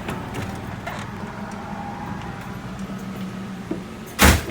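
Motorhome's Ford V10 engine idling with a steady low hum, with a few light clicks and one loud short thump near the end.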